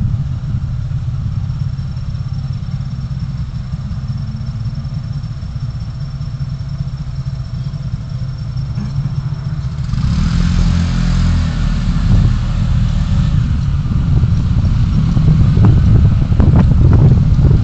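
Low steady rumble of a moving road vehicle. About ten seconds in, a louder rushing noise joins it, with scattered knocks near the end.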